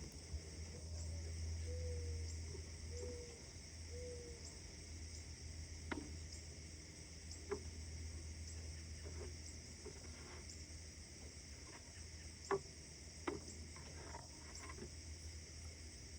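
A steady, high-pitched chorus of chirping crickets, with a low rumble that is strongest in the first few seconds and then eases. Four short low calls come in the first few seconds, and a few sharp clicks follow later.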